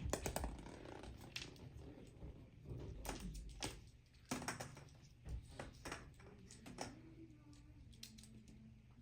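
Irregular sharp taps and clicks, a cluster in the first second and more spread through the rest, like small hard objects knocking together.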